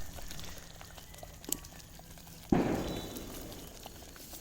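Ghee roast masala sizzling faintly in a hot pan, with a sudden louder burst of sizzling about two and a half seconds in that dies away over a second or so.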